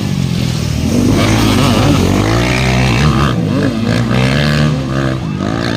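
Motocross bike engines revving, their pitch rising and falling repeatedly with the throttle.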